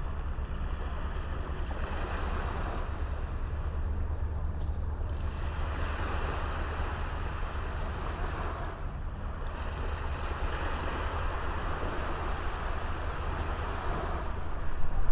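Small sea waves washing onto a beach, the wash swelling and fading about three times, over a low rumble of wind on the microphone.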